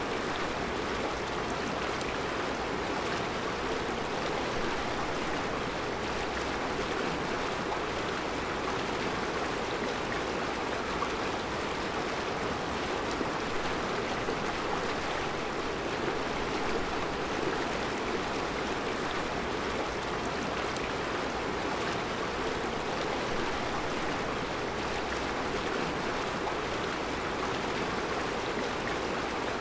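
Mountain river flowing over round rocks in a rocky bed, a steady rushing of water.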